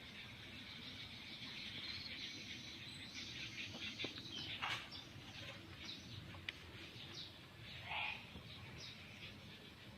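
Birds giving scattered short chirps over faint outdoor background noise, with a couple of light clicks.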